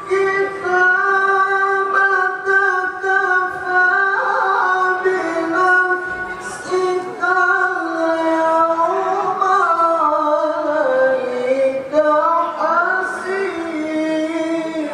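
Quran recitation in the melodic tilawah style: a single voice holding one long, ornamented melismatic line without words. The pitch holds steady for most of its length, slides down gradually a little after halfway, then climbs again near the end.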